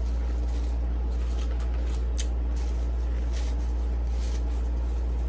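Close-up chewing and crunching of salad with croutons, irregular crunches over a steady low hum from a room air conditioner.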